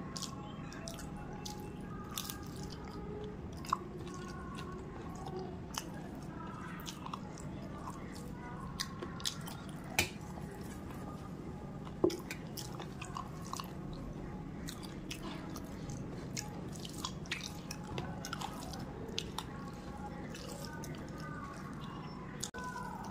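Close-miked eating sounds: wet chewing and lip smacking while eating spicy chicken feet and rice by hand. Many small sharp clicks run through it, with a few louder snaps about 4, 10 and 12 seconds in.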